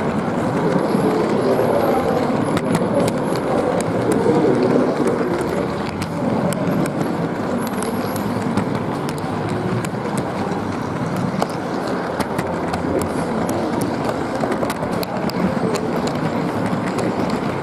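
G-scale model train rolling along its outdoor track, with a steady rolling noise from the wheels and motor and frequent small clicks.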